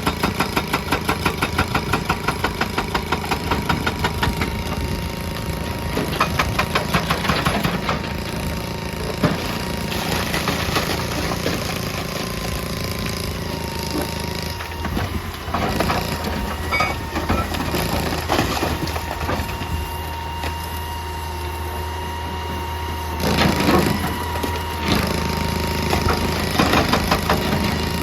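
Hydraulic excavator working rock: its diesel engine runs steadily under a thin whine, with rapid regular pounding for the first few seconds, then scattered heavy knocks and scraping of rock.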